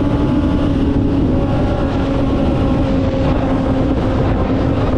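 Kawasaki ZX-6R sport bike's inline-four engine running at a steady, fairly high pitch while riding, with wind rushing over the microphone.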